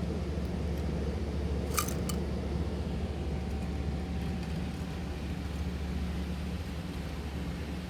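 Steady low hum, with two quick high chirps about two seconds in.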